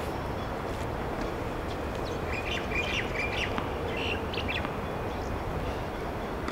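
Birds chirping in short clusters of high calls through the middle, over a steady outdoor background noise.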